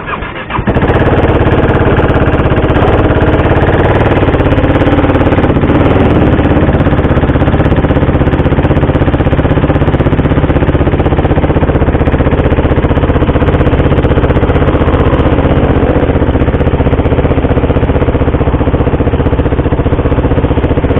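KTM RC 390's single-cylinder engine idling steadily and loud, cutting in abruptly under a second in.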